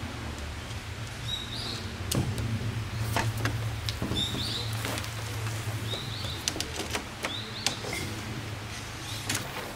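Small bird chirping in short phrases every second or two, over scattered light clicks and knocks and a steady low hum.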